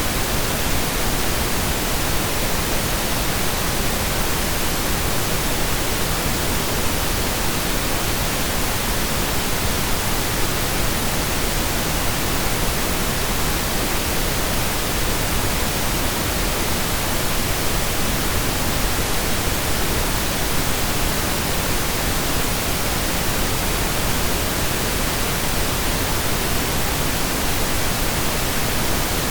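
Steady synthesized pink noise: an even hiss spread across the whole range, without change or breaks.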